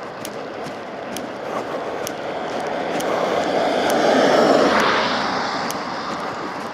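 A vehicle passing on the road: its noise swells to a peak about four seconds in, drops in pitch as it goes by, and fades away. Footsteps tick lightly about twice a second.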